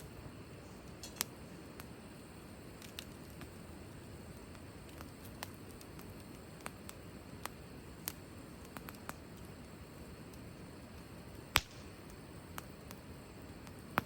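Wood fire crackling: scattered sharp pops and snaps of burning wood over a low steady hiss, with one much louder pop late on.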